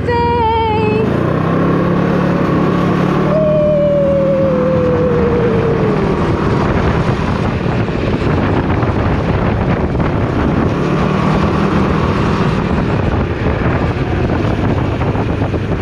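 Can-Am Ryker 600's engine running under way with wind noise on the microphone. The engine note rises about a second in as it accelerates, and a falling whine comes from about three to six seconds.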